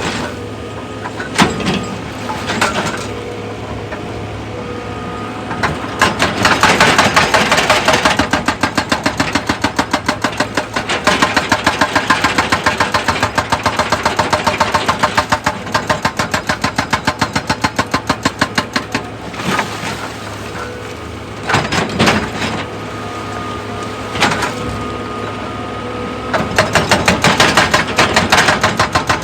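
Excavator's diesel engine running steadily, with long spells of rapid rhythmic pounding at several strokes a second and a few single heavy knocks in between. The pounding starts about six seconds in, drops away after about twenty seconds and resumes near the end.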